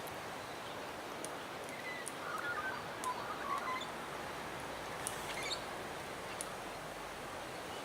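Birds giving short chirps, a cluster about two to three and a half seconds in and another about five seconds in, over a steady outdoor hiss.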